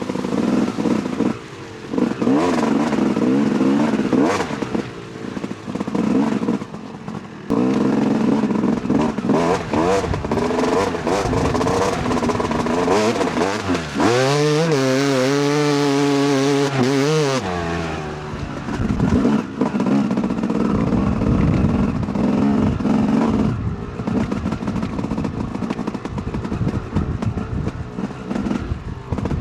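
Two-stroke dirt bike engine of a 2008 Yamaha YZ250 being ridden off-road, revving up and down as the throttle opens and closes. About halfway through the engine revs up and is held at high revs for about three seconds, then drops back.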